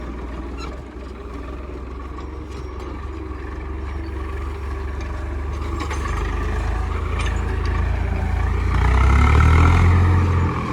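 Tractor engine running with a steady low rumble that grows gradually louder, heaviest about nine seconds in, then easing off near the end.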